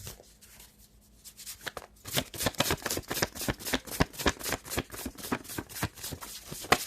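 A deck of tarot cards being shuffled by hand: a rapid, crisp run of card flicks that starts about two seconds in and stops just before the end.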